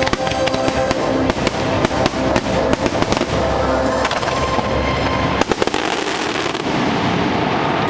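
Fireworks bursting and crackling in rapid succession over the show's music, with the bangs thinning out toward the end.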